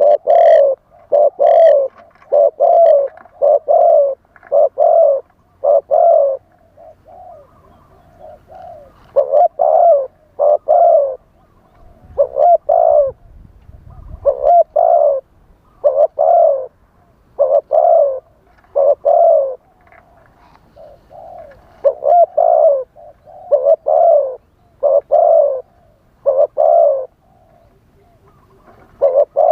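Spotted dove cooing over and over, its low coo notes coming in short groups with brief pauses between them. This is the wild-type call used to lure doves in decoy hunting. A brief low rumble comes about halfway through.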